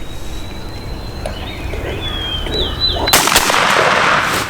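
A shotgun shot at a turkey about three seconds in: a sudden loud blast, followed by loud continuing noise.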